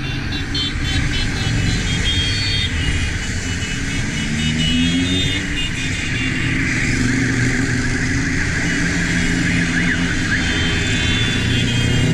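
Motorcycle engine running under way, rising in pitch as it accelerates about four seconds in, with wind and road noise rushing over the mic.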